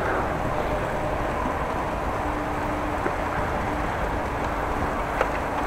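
Wind rumbling over the microphone of a camera riding on a moving bicycle, mixed with steady riding and road noise and a faint steady hum. Two faint clicks, about three and five seconds in.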